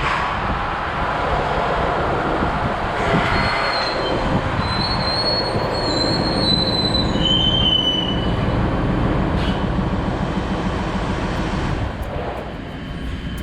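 Farm machinery running with a steady, loud rumble, with high metallic squeals from about three to eight seconds in.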